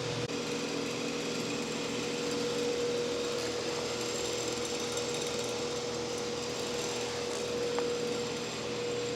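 Steady mechanical hum with an even hiss and a constant mid-pitched tone, unchanging throughout.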